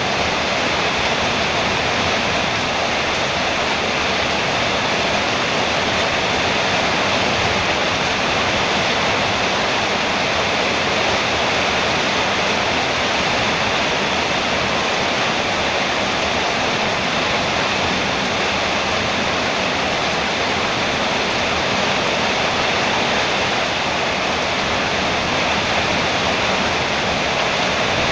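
Heavy rain falling steadily on a metal roof, a dense, even hiss with no letup.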